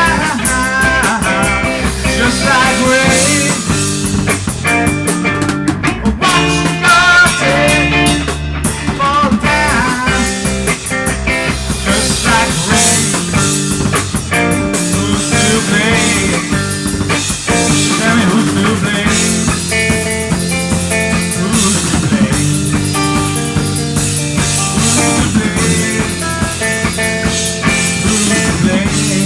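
Rock music at a loud, steady level: guitar with bass and drum kit, some notes bent or wavering in the first few seconds.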